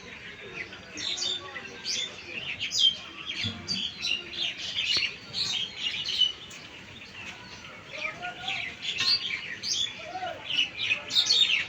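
Several small birds chirping and twittering at once, a dense run of short, high, overlapping calls.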